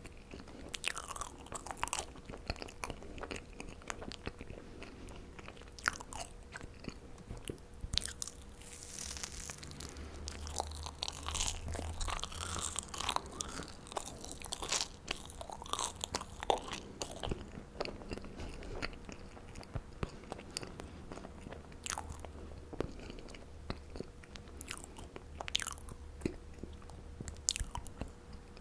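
A person chewing and biting marshmallows close to the microphone: a steady run of small sharp clicks and sticky mouth sounds, busiest in the middle.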